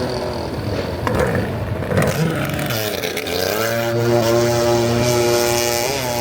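Motorized surfboard engine running, its pitch dropping and then climbing again about three seconds in as the throttle is eased off and opened up.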